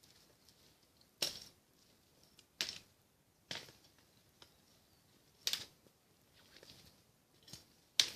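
Six sharp knocks at irregular intervals, a second or two apart, each with a short ring after it; the last two come close together near the end.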